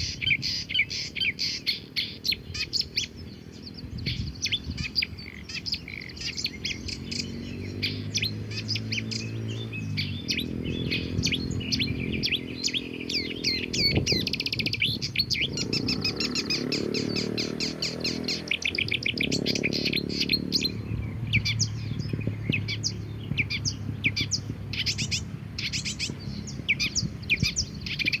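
Several songbirds chirping and tweeting in quick, overlapping calls. A low hum runs underneath through the middle of the stretch.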